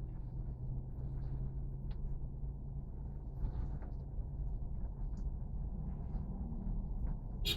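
Steady low rumble, with faint scattered ticks and a sharp click near the end.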